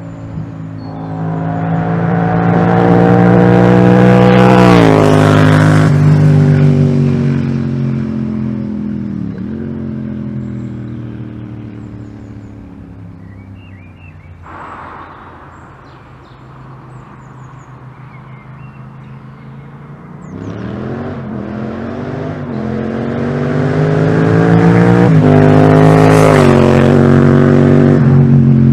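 Yamaha MT-07's parallel-twin engine through an aftermarket exhaust, accelerating with rising pitch and an upshift about five seconds in, then easing off and fading. About twenty seconds in it accelerates hard again, rising to its loudest near the end.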